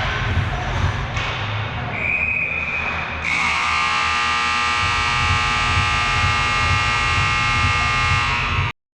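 Ice hockey arena buzzer horn sounding, a loud, steady, buzzy tone that starts about three seconds in and runs about five seconds until it cuts off abruptly. A brief high steady tone comes just before it, over rink noise.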